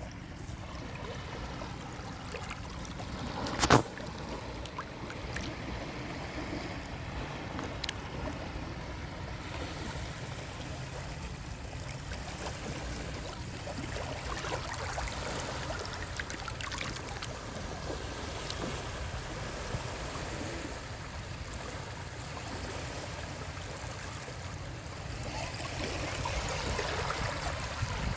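Small sea waves washing steadily against the shore, with a low rumble beneath. A single sharp click comes just under four seconds in, and a wave swells a little louder near the end.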